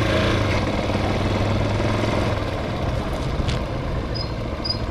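Hawk 250 motorcycle's single-cylinder engine running at low, steady speed, with a few faint high chirps near the end.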